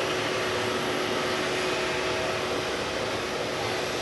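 Jet airliner engines running, a steady noise with a faint whine.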